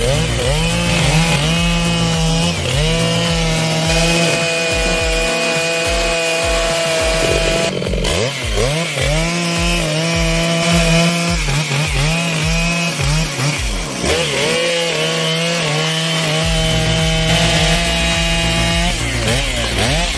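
Large two-stroke chainsaw cutting wood under load. The engine pitch sags as the chain bites into the cut, holds steady while cutting, then climbs again as it frees, several times over.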